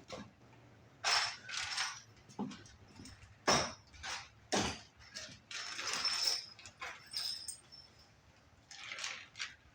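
Hardware being handled while a bolt is fitted into a steering stabilizer mount: scraping and rattling, with two sharp metal clacks about a second apart near the middle.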